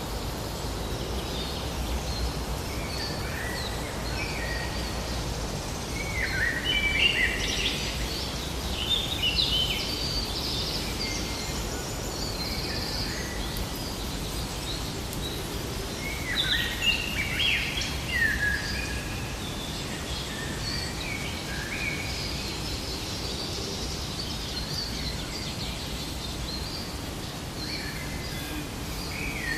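Forest ambience: several birds chirping and calling over a steady background hiss and low rumble, with bursts of busier song about a quarter and again about halfway through.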